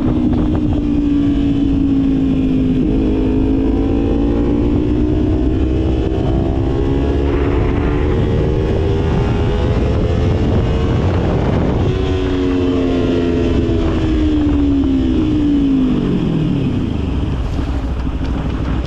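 Motorcycle engine running at speed with wind noise. Its pitch climbs slowly over the first ten seconds, holds, then falls steeply about sixteen seconds in as the revs drop.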